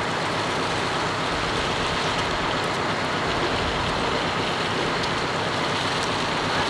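Freight train's gondola cars rolling slowly past, a steady rolling rumble of wheels on rail.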